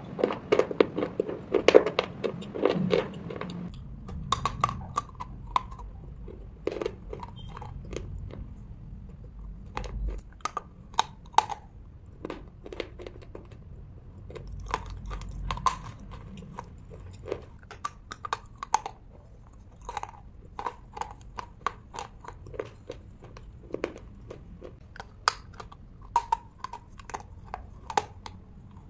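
Slate pencils being bitten and chewed: a dense run of sharp crunches in the first few seconds, then scattered crunches and chewing.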